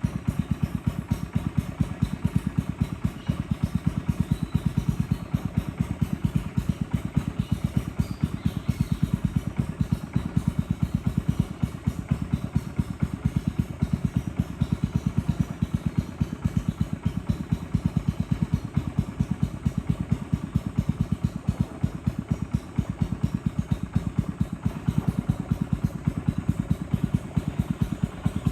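A small boat's engine running steadily at an even speed, a rapid, regular chugging of firing pulses.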